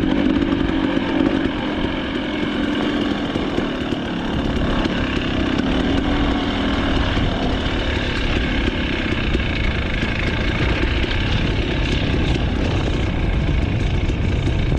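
Dirt bike engine running steadily, with a strong low hum in the first few seconds.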